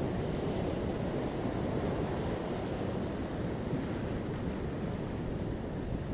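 Ocean waves washing onto a beach: a steady rushing surf noise, easing slightly toward the end.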